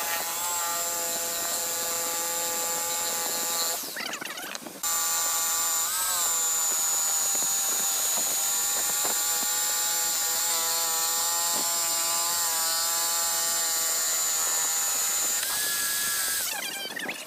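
Electric power tool motor running with a steady whine, briefly stopping about four seconds in and again near the end, with a slight dip in pitch soon after it restarts.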